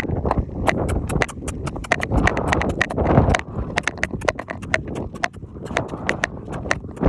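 Horse hooves clip-clopping at a brisk gait, several quick, irregular strikes a second.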